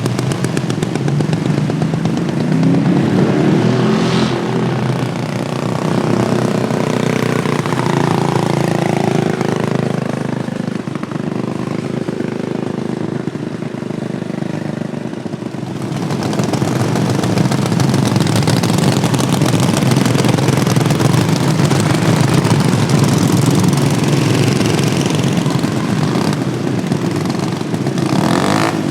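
Small engines of modified Wheel Horse racing lawnmowers running and revving, their pitch rising and falling through the first seconds. About 16 s in, the sound grows louder and denser as a whole field of mowers runs together.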